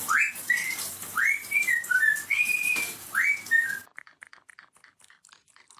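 A pet parrot whistling: a string of short whistled notes, several sweeping sharply upward and one held briefly. After about four seconds the whistling stops and only faint clicking remains.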